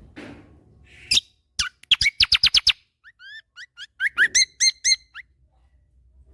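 A kecial kombo songbird in full song giving its rapid 'tembakan' calls. There is first a fast run of about eight sharp, piercing notes, then a string of quick rising chirps.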